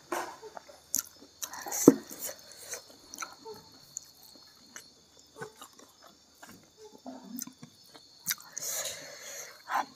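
Close-up mouth sounds of a person chewing food: irregular wet smacks and clicks of the lips and tongue. The sharpest smack comes about two seconds in.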